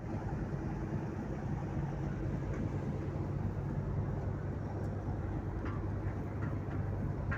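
A tugboat's diesel engine running steadily, heard on board as a deep, even hum.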